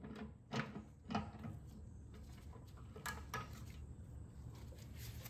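A few light knocks and clinks of tools and metal parts being handled while a mower deck spindle is worked on: two about half a second apart near the start, and two more close together about three seconds in.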